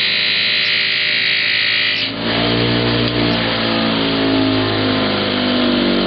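Bench buffing wheel running while aluminium motorcycle engine parts are polished on it. A strong high hiss gives way about two seconds in to a lower motor hum whose pitch wavers.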